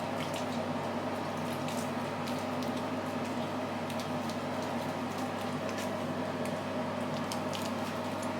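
Foaming face cleanser being lathered and massaged over the face with wet hands: a soft wet squishing with fine, irregular crackles of popping foam, over a steady low hum.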